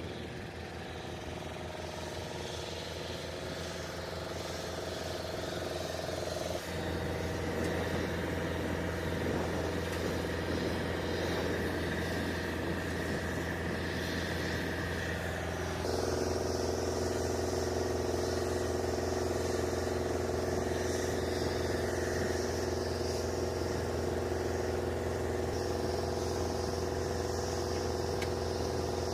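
Steady engine drone with several held tones, changing abruptly about seven and sixteen seconds in.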